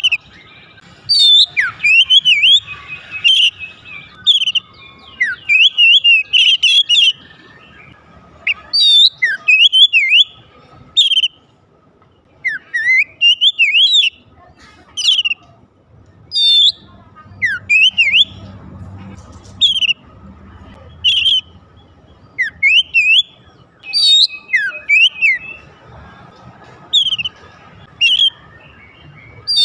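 Oriental magpie-robin singing: loud, varied whistled phrases of rising and falling notes, repeated every second or two.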